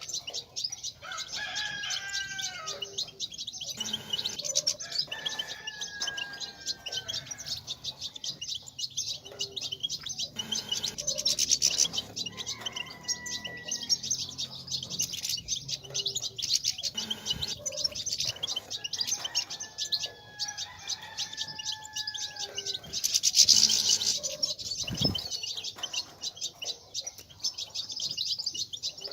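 European goldfinches twittering in a fast, continuous chatter, the 'batbata' used to stir caged males to sing. Drawn-out whistled calls recur every few seconds beneath it, and the chatter swells louder about 23 seconds in.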